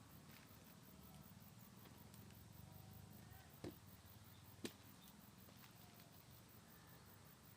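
Near silence: faint outdoor background, with two short sharp clicks about a second apart near the middle.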